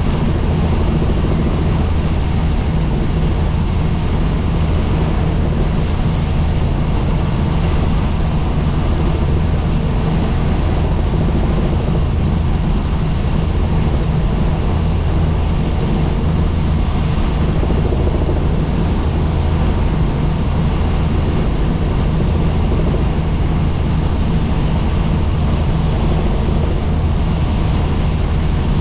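Helicopter in flight: a loud, constant drone of rotor and engine with a strong low hum, unchanging throughout.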